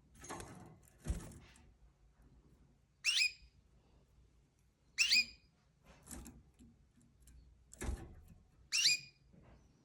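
A pet bird giving three short, sharp, high-pitched squawks about two seconds apart, each sliding up then holding, during a scuffle between two birds. Soft thumps and scuffling come between them, the loudest about a second in and near the end.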